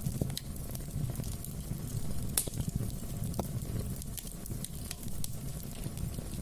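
Wood fire burning in a fireplace, crackling with scattered sharp pops over a low rumble of flames; the sharpest pop comes about two and a half seconds in.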